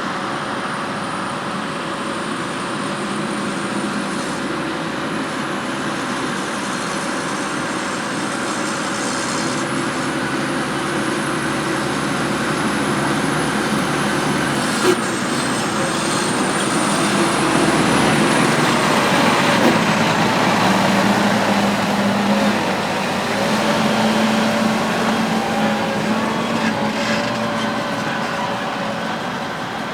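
Heavy farm machinery running steadily, with a thin high whine over the engine noise. It grows louder in the second half, and there is a single sharp click about halfway through.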